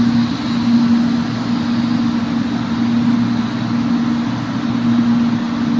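0 Series Shinkansen train moving slowly alongside the platform: a steady electric hum with a low drone under it, holding the same pitch throughout.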